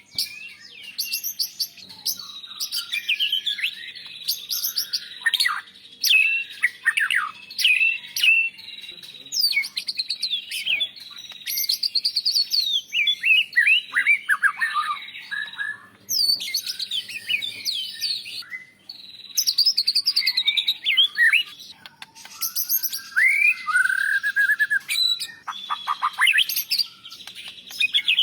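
White-rumped shama (murai batu) singing a loud, varied song of quick chirps, trills and sweeping whistles, the phrases separated by short pauses.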